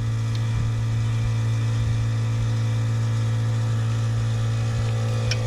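A steady machine hum at one constant low pitch, running without change, with a small click near the end.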